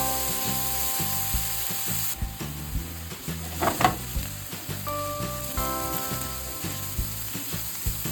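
Chopped onion sizzling as it sautés in oil in a frying pan, the sizzle louder for the first two seconds and then settling lower. A spatula stirs and scrapes the pan, once about four seconds in and again near the end.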